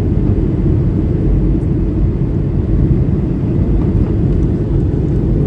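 Steady cabin noise of a Boeing 737-800 in descent: an even rumble from its CFM56 engines and the airflow over the fuselage, heard inside the cabin.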